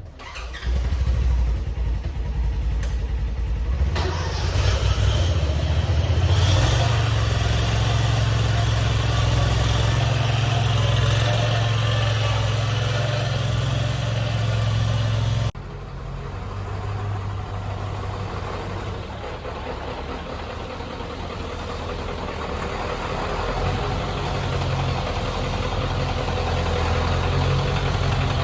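7.3L Powerstroke turbo-diesel V8 idling steadily with a deep, low exhaust note. It gets louder a few seconds in and drops abruptly to a quieter idle about halfway through.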